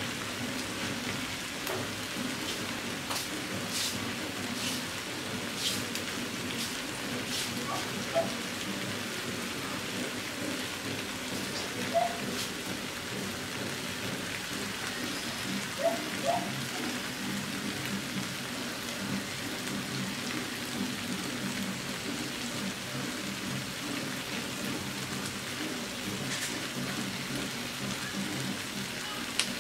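Chicken adobo sizzling in a wok as its sauce cooks down and the meat browns: a steady sizzle with scattered sharp pops.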